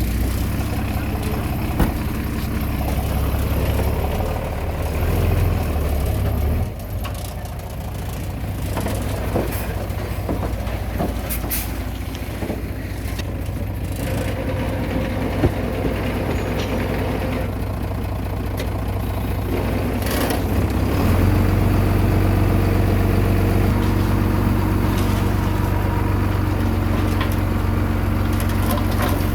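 Heavy diesel engine running, its note dropping about seven seconds in and coming back stronger and steadier about 21 seconds in, with a few brief sharp knocks.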